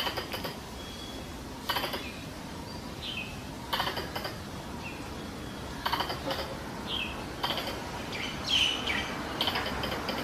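Wild squirrel mating-season calls played as a lure: short bursts of rapid chattering clicks about every two seconds, with short falling chirps in between.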